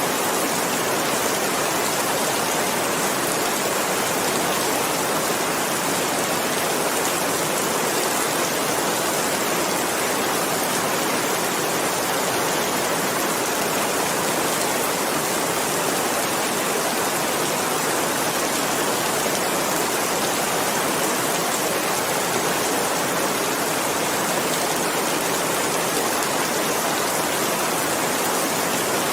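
Steady rain: a dense, even hiss of falling water with no single drops or thunder standing out.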